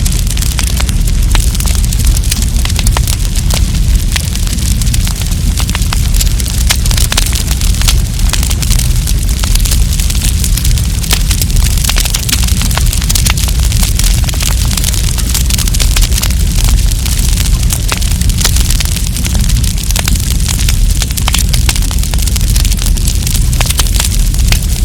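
Wood campfire burning, with many sharp crackles and pops over a steady low rumble.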